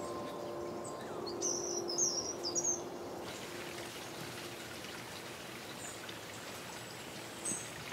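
Small birds chirping in short high calls, a cluster about one and a half to three seconds in and another just before the end, over the steady rush of a forest stream.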